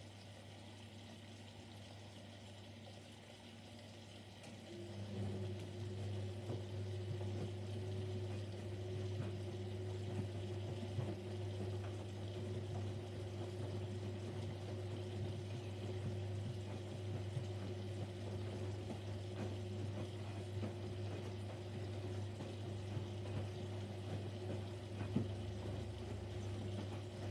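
Siemens Siwamat Plus 574 washing machine in its first rinse. About five seconds in, a steady hum with water noise sets in and holds.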